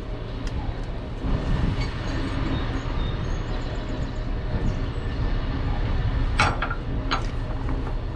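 Steady low rumble of a heavy vehicle's engine, with two sharp clicks or rattles about six and a half and seven seconds in.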